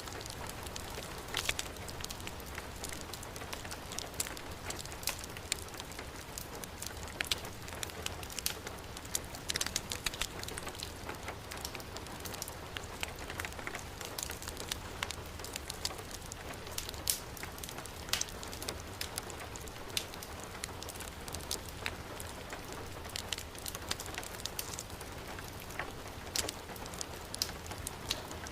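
Heavy rain falling steadily, mixed with a fireplace fire crackling. Many short, sharp pops come at irregular moments over an even hiss.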